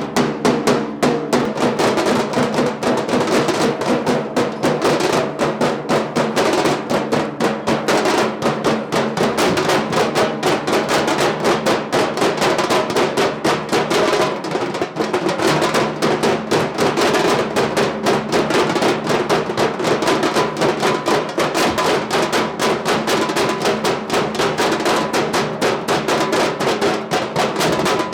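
A group of drummers playing a fast, dense beat together, loud and without a break.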